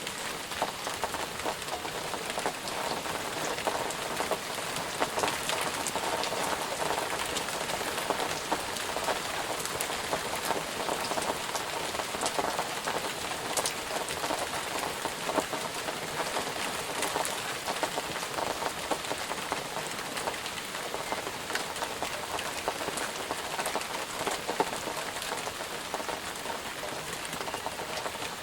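Steady rain falling, a constant hiss of rainfall with many small drop patters spread throughout.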